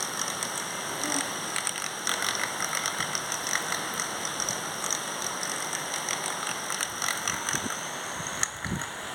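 Small electric motor of a homemade toy boat running steadily with a high whine, over a splashing, crackly noise of water churned by its propeller.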